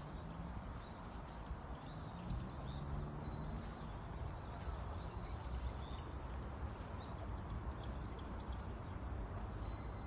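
Small birds chirping, many short high calls scattered throughout, over a steady low outdoor rumble.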